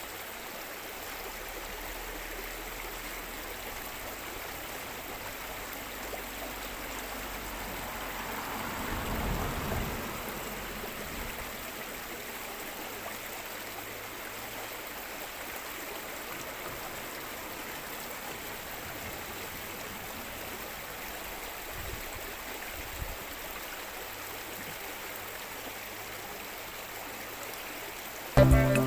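Stream water flowing steadily, with a brief swell about a third of the way through.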